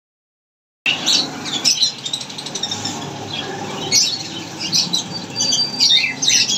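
Parrots calling: a rapid string of short, harsh, high calls that starts just under a second in and keeps going.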